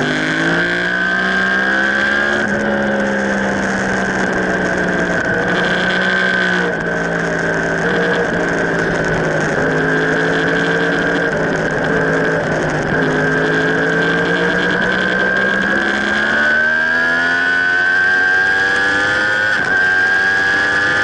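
Sport motorcycle engine running hard at track speed, heard from onboard. The revs climb at the start, hold nearly steady through a long lean with a small dip about seven seconds in, then climb again over the last few seconds as it accelerates out of the corner.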